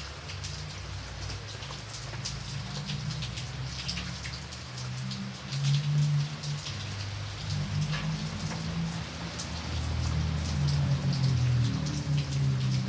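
Steady rain falling, with individual drops striking close by, over a low rumble that swells twice and eases.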